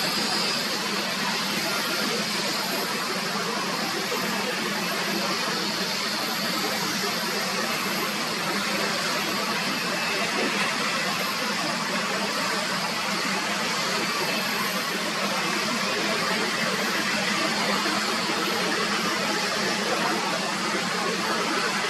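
Steady rushing noise of airliner jet engines, even throughout, with a faint high whine above it.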